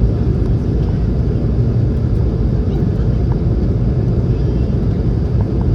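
Steady low rumble of cabin noise inside a Boeing 717 airliner descending toward landing: airflow over the fuselage and its rear-mounted turbofan engines.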